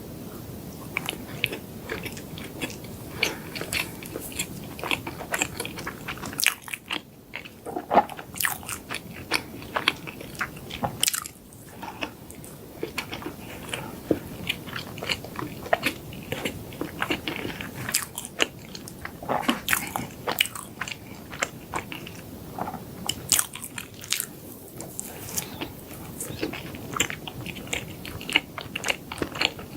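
Close-miked eating: a person biting and chewing chocolate desserts, with many sharp, crunchy crackles and mouth sounds at an irregular pace, a few bites louder than the rest.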